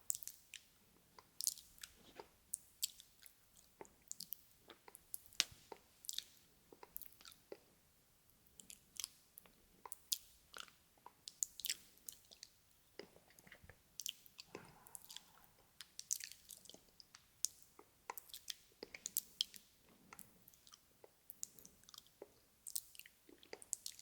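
Close-miked ASMR mouth sounds: wet, irregular clicks and smacks of the mouth, several a second, with a few louder ones standing out.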